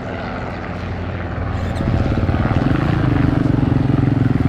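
An engine running with a steady low pulsing, growing louder from about two seconds in.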